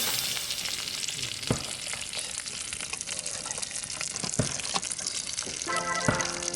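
Wood fire crackling steadily, with a few sharp pops; background music comes back in near the end.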